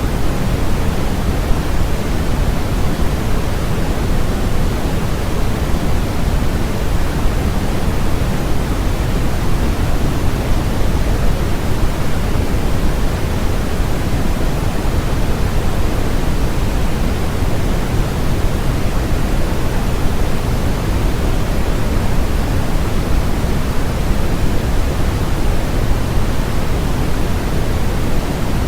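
Steady generated noise, loud and unchanging throughout, with no events. It is a continuous hiss and rush weighted toward the low end rather than flat, closer to pink noise than strict white noise.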